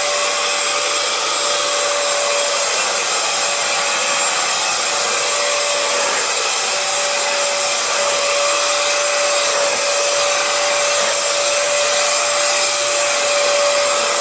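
Hoover FloorMate Edge hard-floor cleaner running in dry mode, its suction motor giving a steady drone with a constant whine as it is pushed over a laminate floor.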